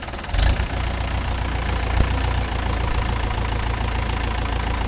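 Diesel engine idling steadily with a low drone, after a short loud burst of noise about half a second in.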